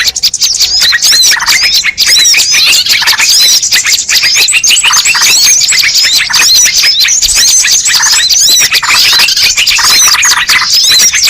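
Bird-lure recording: a dense, loud chorus of many small birds chirping and twittering over one another in rapid, overlapping calls without a break.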